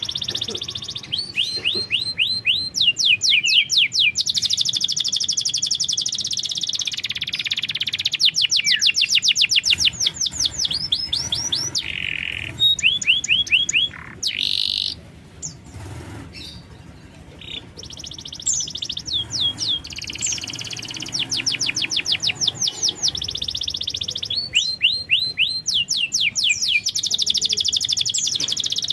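Domestic canary singing: long runs of rapid trills and fast sweeping whistled notes, with a short lull about halfway through.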